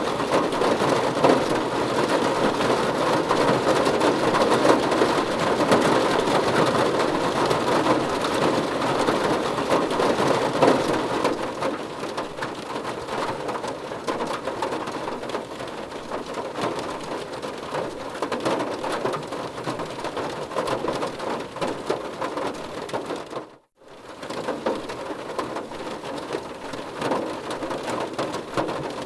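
Heavy rain falling steadily, a dense hiss of drops. It eases to a lighter fall about eleven seconds in, and drops out for a moment near the end before resuming.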